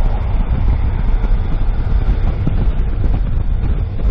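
Car on the move: steady road and engine rumble, heaviest at the low end.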